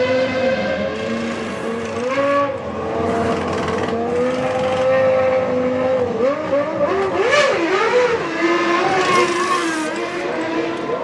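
1997 Formula One car's 3.0-litre engine running at high revs. Its pitch holds fairly steady, then drops and rises several times in quick succession about two-thirds of the way through as the gears are changed.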